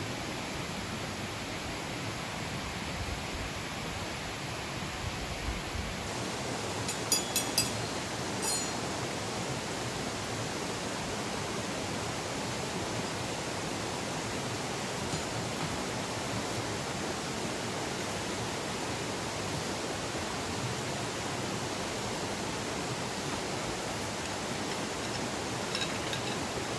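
Wood campfire crackling: a cluster of sharp pops about seven seconds in and a few more near the end, over a steady rushing noise.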